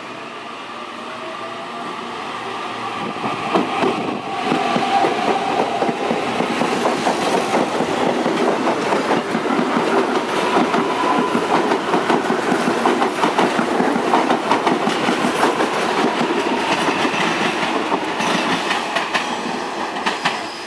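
Electric multiple-unit commuter train approaching and passing close by. A whine rises in pitch as it comes in, then a long run of rapid wheel clicks over rail joints follows, easing off near the end.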